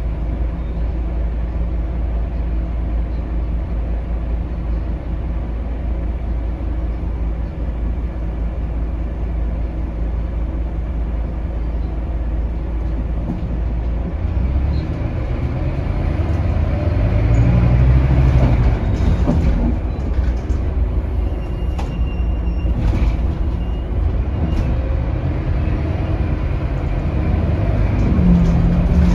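Scania DC9 five-cylinder diesel engine of a Scania K280UB city bus, heard on board: a steady low drone that climbs in pitch and level about halfway through as the bus accelerates, then again near the end, with a few knocks and rattles from the body.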